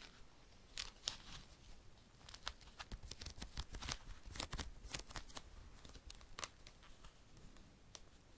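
Crinkling, tearing rustles of something being handled close up, a run of short crisp crackles, busiest in the middle.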